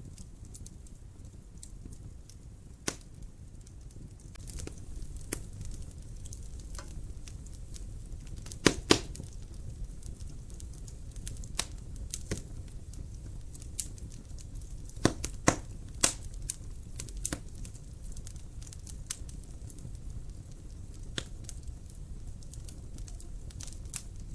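Wood fire burning in a fireplace: a steady low rumble of flames under irregular sharp crackles and pops. The loudest are a pair of pops about nine seconds in and a cluster around fifteen to sixteen seconds.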